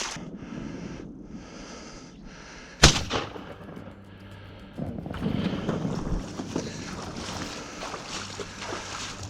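A single shotgun shot about three seconds in, with a brief echo after it: the finishing shot on a wounded goose. Rustling noise follows a couple of seconds later.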